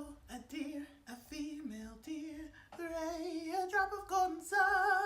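A woman's voice singing a short melody, with some held notes wavering in a vibrato.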